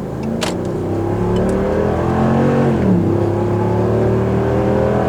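A 5.7-litre Hemi V8 in a Ram 1500 pickup, with its factory muffler, accelerating hard, heard from inside the cab. The engine note climbs steadily, drops sharply about three seconds in as the transmission upshifts, then climbs again.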